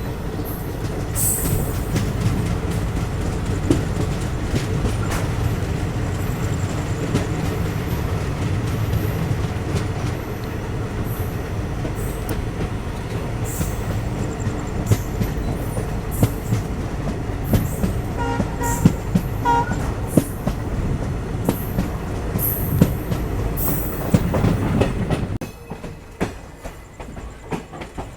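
Passenger train running along the track: a steady low rumble with scattered rail clicks. A short high pitched tone sounds about two-thirds of the way through, and the running noise drops suddenly near the end.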